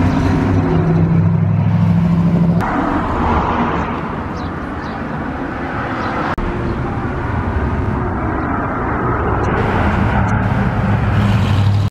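Classic cars cruising slowly past in street traffic, their engines running with a deep, steady low hum. The sound shifts abruptly about two and a half seconds in and again a little past six seconds.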